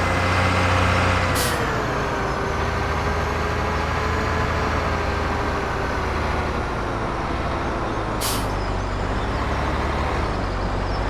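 A heavy vehicle engine running steadily, its pitch dropping slightly about two seconds in, with two short hisses of air, one early and one about eight seconds in.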